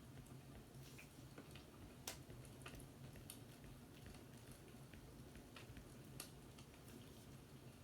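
Faint crackling fireplace: scattered, irregular pops and clicks over a low steady hum, the sharpest about two seconds in and about six seconds in.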